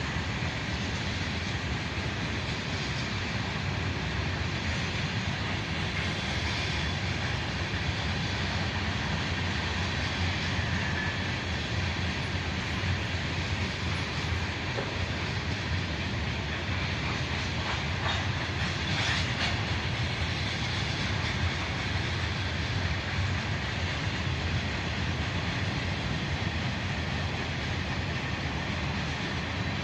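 Freight train rolling past, a steady rumble of wheels on rail, with a few sharp clicks about two-thirds of the way through.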